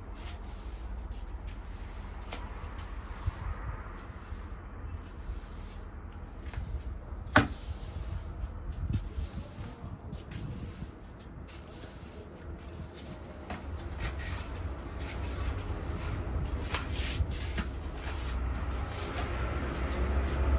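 Broom sweeping a hard balcony floor in soft, repeated scrapes, with one sharp knock about seven seconds in, over a steady low rumble of distant traffic.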